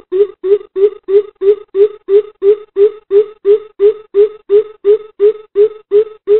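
Greater coucal calling: a long, steady series of deep hollow hoots, about three a second, the pitch edging slightly upward as the series goes on.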